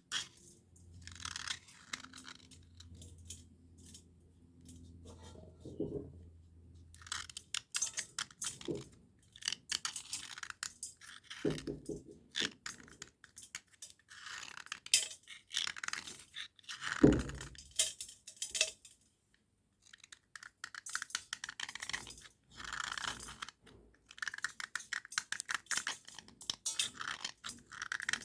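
Dry scratching and crunching of a cubical slate pencil rubbed and scraped against a slate, in irregular runs of short strokes, with a louder knock about 17 seconds in.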